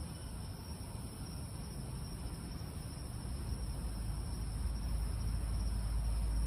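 A steady, high-pitched chorus of night insects, with a low rumble that grows louder in the second half.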